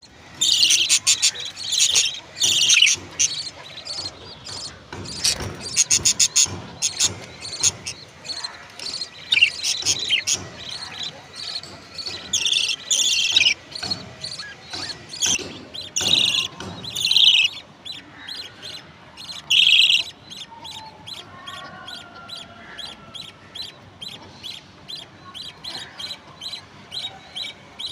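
Baby birds chirping: rapid high-pitched calls in loud clusters for about the first twenty seconds, then softer chirps repeated at an even pace.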